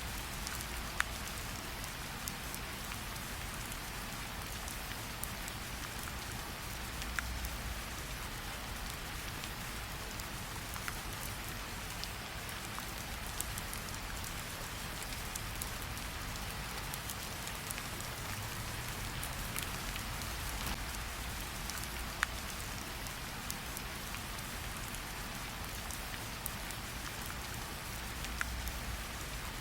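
Steady rain falling, with a few single sharp crackles from a campfire scattered through it.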